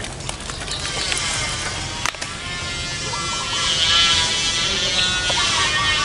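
Birds singing with wavering, warbling notes. Near the end a zebra dove gives a run of short cooing notes, about four a second.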